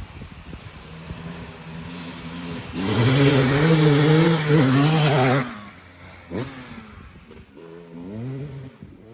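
Dirt bike engine running and being revved: a loud, wavering rev lasting about two and a half seconds a few seconds in, a quick blip after it, and a shorter rev near the end.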